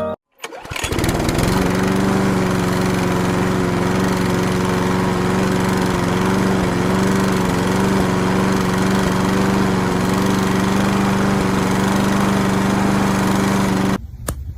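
A motor running steadily with a constant hum, starting just after a moment of silence and cutting off abruptly near the end.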